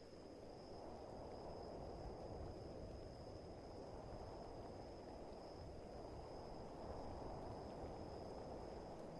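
Faint rainy-night nature ambience: a low rushing of rain and wind that swells and eases, with a steady high trill of crickets above it.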